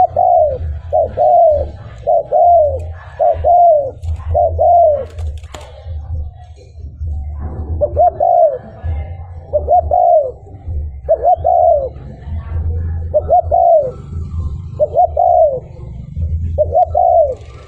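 Spotted dove (cu gáy) cooing: a long series of arched coo notes, often in quick pairs, repeating about once a second, with a pause of a couple of seconds around the middle before the calls resume.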